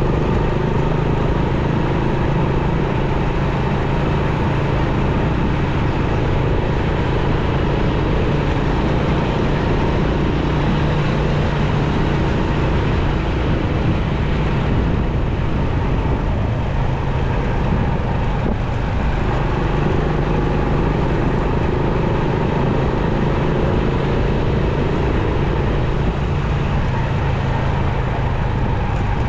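Motorcycle engine running steadily while riding through city traffic, mixed with a steady rush of road and traffic noise.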